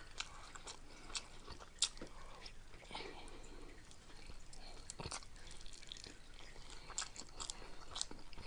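Faint close-up chewing of Flaming Hot Cheetos nachos: scattered soft crunches and mouth clicks, with a couple of sharper clicks about two and five seconds in.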